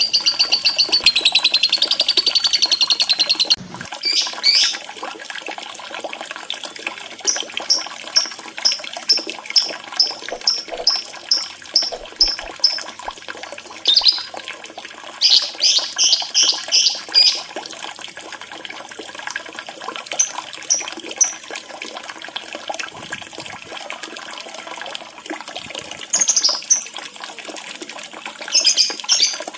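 Recorded bird song over a steady sound of running water. A long, rapid, wavering trill cuts off abruptly about three and a half seconds in; after it come a run of short, evenly spaced chirps, about two a second, and several brief bursts of chattering.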